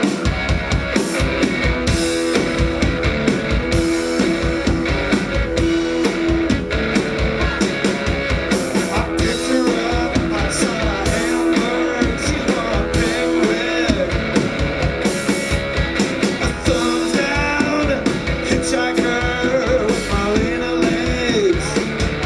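Live rock trio playing an instrumental passage: electric guitar over a drum kit, which comes in with a steady beat right at the start.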